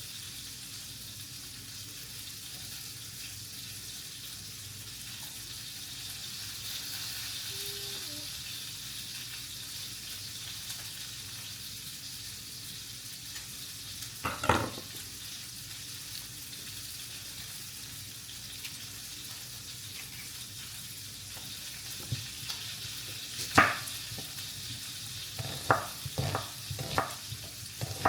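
Food frying in a pan with a steady sizzle. A utensil knocks against the pan about halfway through and again later, then several quick taps near the end as the food is stirred.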